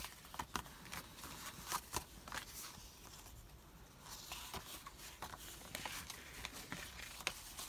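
Paper and craft materials being handled on a desk: faint rustling with scattered small taps and clicks.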